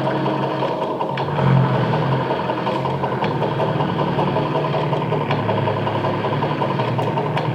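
Experimental sound-art drone: a dense, steady, engine-like rumbling texture with a low hum that swells about a second in, and a few faint clicks scattered through it.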